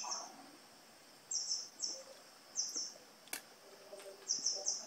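Small bird chirping: short high chirps coming singly, in quick pairs and in a run of three near the end. A single sharp click sounds about two-thirds of the way through.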